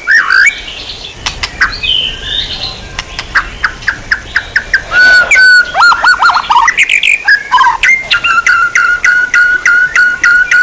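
Songbird singing: a varied run of whistled glides and short trills, then from about eight seconds in a fast, even string of repeated sharp notes, about four or five a second.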